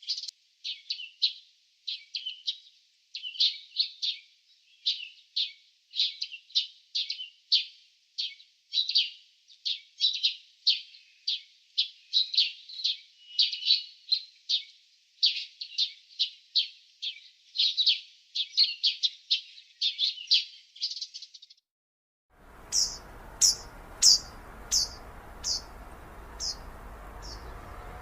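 Small birds chirping in quick, busy runs of high notes. About 22 seconds in, this breaks off into a different scene with a steady outdoor background hiss and a series of single, higher chirps, about two a second, growing fainter.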